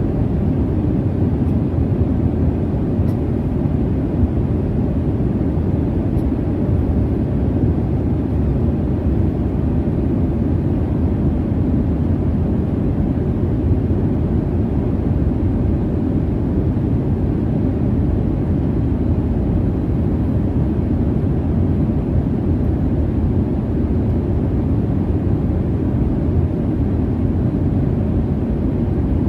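Steady low rumble of jet airliner cabin noise in cruise, an even deep hiss and drone that does not change.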